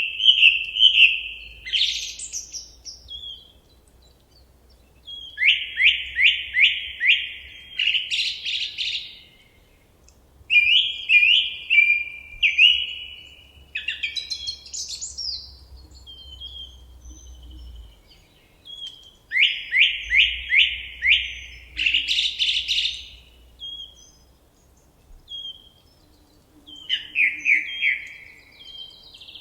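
A songbird singing in separate phrases of quickly repeated clear notes, several to a phrase, with pauses of a second or two between phrases.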